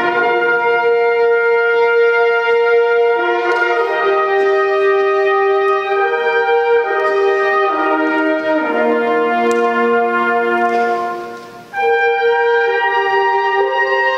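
Live music from an ensemble with brass instruments, playing long held notes in changing chords, with a brief break near the end before the next chord comes in.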